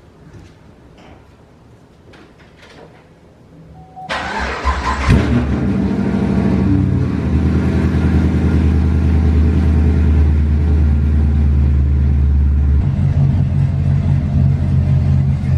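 A few faint clicks, then a car engine cranks and starts about four seconds in and settles into a steady, loud run. Its note changes near the end.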